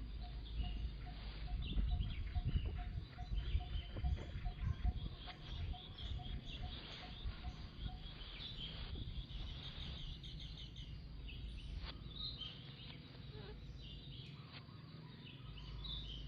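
Outdoor ambience with many short high chirping calls. For about the first eight seconds a short note repeats evenly, roughly two or three times a second. Underneath is a low rumble that is loudest between about two and five seconds in.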